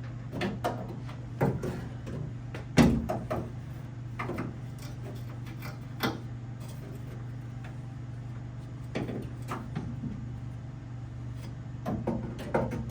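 Scattered clicks and knocks of parts being handled and pulled from a car door, the loudest about three seconds in, over a steady low hum.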